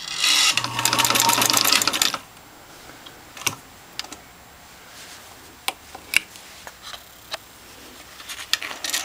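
Motorized 1922 Singer 66 cast-iron sewing machine stitching through folded heavy nylon webbing in a two-second run. The needle mechanism clatters at about ten strokes a second over a low motor hum. Scattered light clicks follow, then a brief second burst of stitching near the end.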